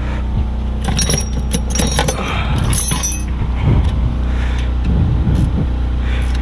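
Metal hand tools clicking and clinking against the rear brake caliper hardware as its bolts are tightened, in a dense run of sharp clicks over about two seconds. A steady low hum runs underneath.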